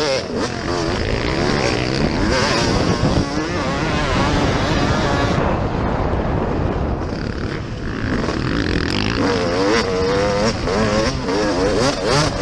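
Motocross dirt bike engine racing, the revs rising and falling with the throttle, easing off briefly about six seconds in before pulling hard again.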